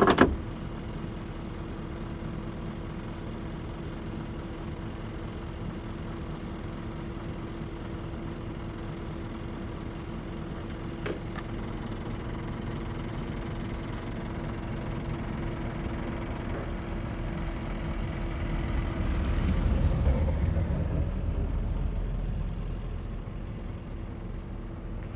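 Scania R560 V8 diesel engine idling steadily, heard from inside the cab. Near the end a second engine, the other plow truck, swells louder in a low rumble and then eases off as it drives past.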